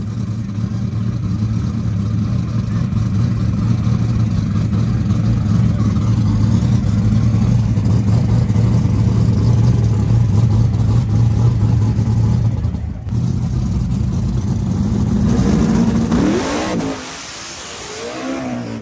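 Buick Regal drag car's engine running steadily at a loud, low idle. After a break, the engine revs up and down in several rising sweeps near the end, with tyre smoke rolling out.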